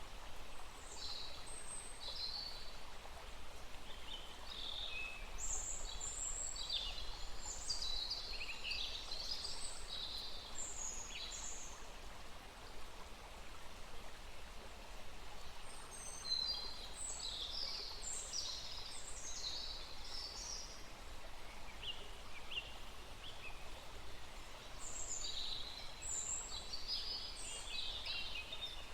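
Small birds singing in three bouts of quick, chirping high notes over the steady faint rush of a small stream.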